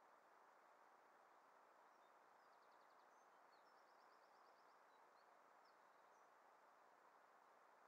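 Near silence with a steady hiss, and faint bird chirps and two quick trills of rapid repeated notes in the middle.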